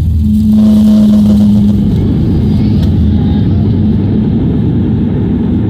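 Loud, steady rumble of an airliner's engines and rushing air heard inside the cabin during landing, with a steady hum over the first two seconds.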